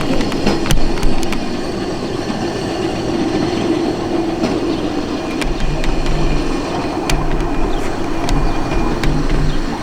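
A train rolling by on the rails: a steady rumble of wheels on track with scattered sharp clicks, and a deeper low rumble joining in about halfway through.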